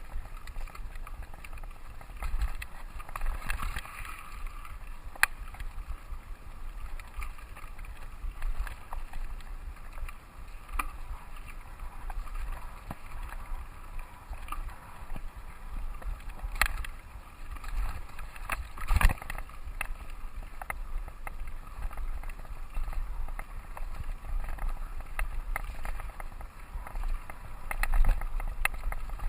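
Mountain bike ridden over a dirt trail: steady rumble of tyres and wind on the microphone, with rattles and a few sharp knocks from bumps, the loudest about two-thirds of the way through.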